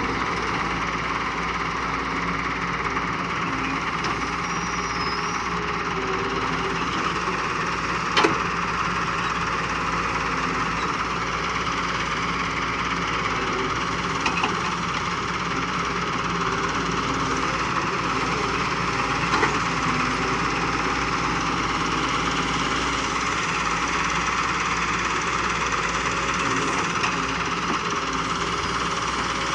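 Diesel engine of a Doosan DX140W wheeled excavator running steadily under work, with three brief sharp knocks spread through.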